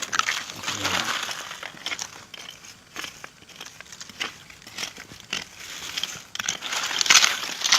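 Irregular rustling and crinkling, with many small crackles and snaps, as dry material is handled and crushed; it grows louder near the end.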